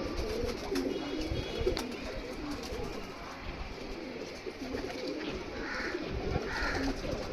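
Domestic pigeons cooing: a low, wavering coo that carries on through the stretch, with a few faint clicks here and there.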